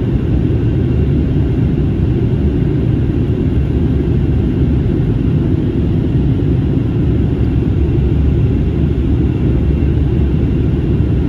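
Steady, loud rumble of airflow and engine noise inside the passenger cabin of an Airbus A321neo airliner during descent.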